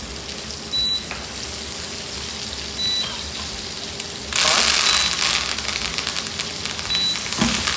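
Prosciutto-wrapped chicken breast frying in butter in a hot pan, a steady sizzle that swells loudly about four seconds in and then settles. A short high beep sounds about every two seconds.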